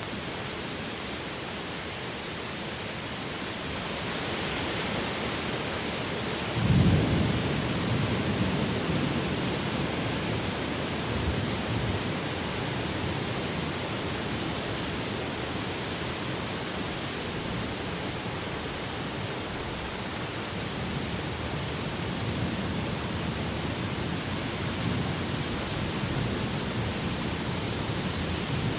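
Tropical rain falling in wind, a steady hiss that swells about four seconds in. About seven seconds in a sudden low rumble breaks in and fades over a few seconds.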